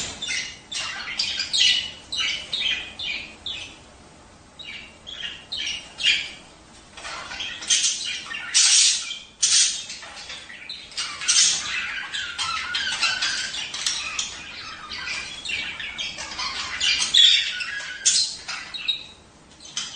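Budgerigars chattering, a busy run of rapid chirps and short squawks with a few louder harsh calls.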